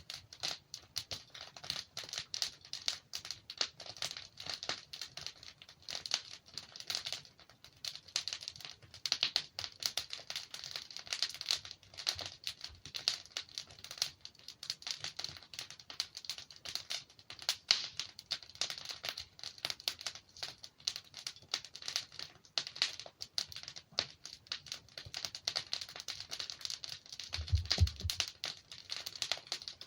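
Wood fire crackling and popping as the logs burn: a dense, irregular run of small snaps, with a brief low thump near the end.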